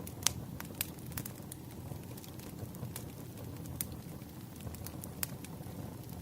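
Wood fire crackling: irregular sharp pops and snaps, one louder pop near the start, over a steady low rumble of burning logs.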